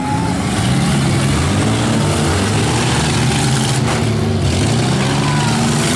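Several demolition derby minivan and SUV engines revving hard together, their pitch rising and falling as the vehicles maneuver in the dirt.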